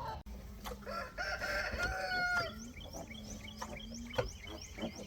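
A rooster crows once, starting about a second in and lasting over a second. It is followed by a run of quick, high chirps.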